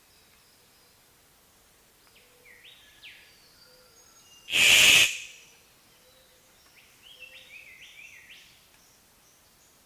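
A bird chirping in short sweeping notes, in two runs, with one loud harsh burst about half a second long halfway through.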